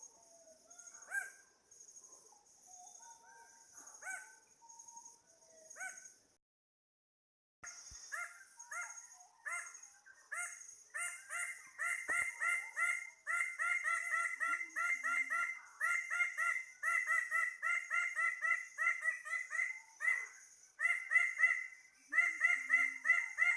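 Forest birds calling over a steady high drone of insects. After a brief dropout to silence, one bird gives long runs of rapid, repeated nasal notes, about four or five a second.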